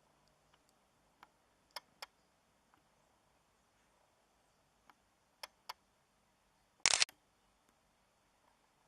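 Quiet background broken by a few sharp clicks, mostly in pairs, and one brief louder rustle about seven seconds in; no aircraft engine sound is heard.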